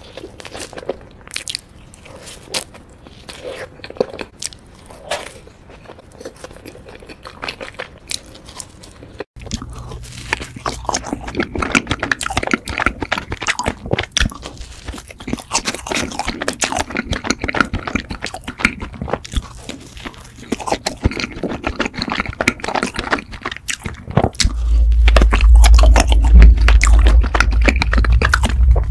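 Close-miked eating sounds: biting and chewing of soft cream-filled, sugar-dusted doughnuts, with many small mouth clicks and smacks. About nine seconds in the chewing becomes louder and denser over a low hum, and a strong deep rumble comes in for the last few seconds.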